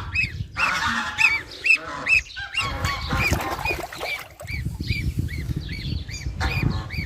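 A bird calling over and over in short calls that rise and fall in pitch, about two a second.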